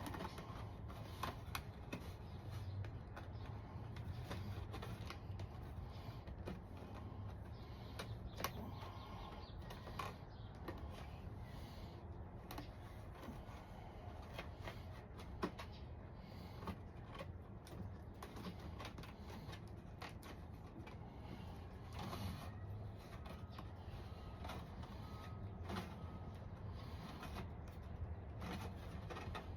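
Scattered clicks, taps and rustles of cardboard being cut and handled, over a steady low hum.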